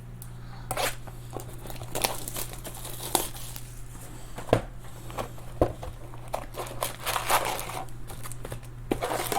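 Sealed trading-card box being opened: packaging torn and crinkled in a run of short, irregular tearing strokes.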